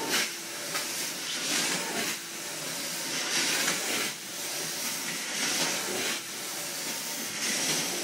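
Water extraction wand of a truck-mounted carpet extractor sucking water out of saturated carpet: a steady rushing hiss of air and water that swells every second or two.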